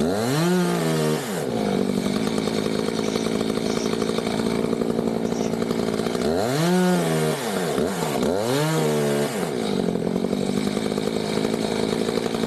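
Chainsaw revved up and let back down three times, about half a second in, about six and a half seconds in and again about two seconds later, over a steady engine drone.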